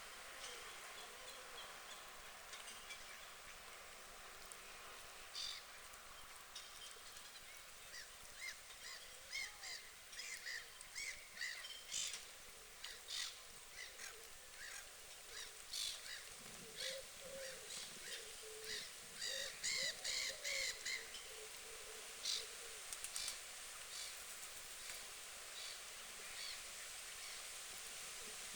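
Canada geese feeding: a run of many short, sharp clicks through the middle, with a few brief soft goose calls among them.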